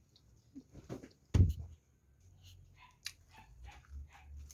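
Close-miked eating: one loud knock about a second and a half in, then a run of short wet chewing and smacking sounds, about three or four a second.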